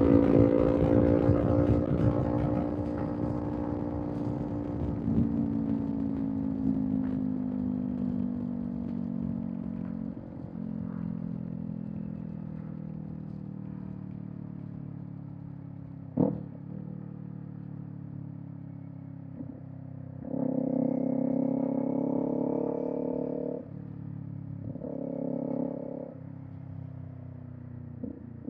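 Kawasaki Z400 parallel-twin running through an aftermarket Villain M1 exhaust: the engine note falls steadily as the bike slows over the first ten seconds, then runs lower and steady, with a sharp click about sixteen seconds in and two short bursts of throttle near the end.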